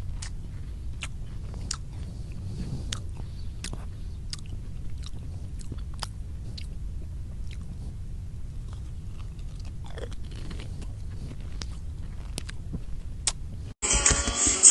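An animal chewing something crunchy: irregular sharp crunches, about one or two a second, over a low steady hum.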